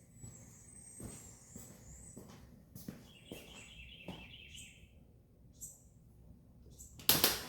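Birds chirping, with a rapid trill about three seconds in, then a sudden loud noise near the end.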